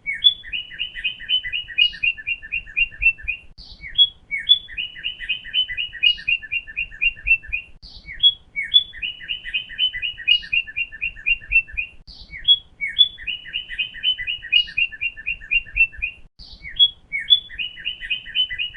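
A songbird singing the same phrase over and over, about every four seconds: two or three sharp high notes, then a fast, even trill of chirps.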